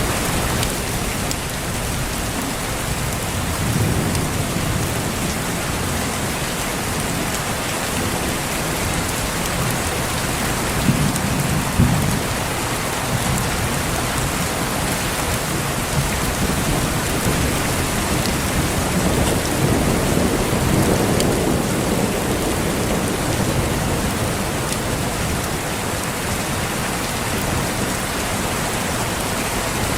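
Steady heavy rain with thunder rumbling low several times, a couple of sharp cracks about eleven and twelve seconds in and a longer rumble about two-thirds of the way through.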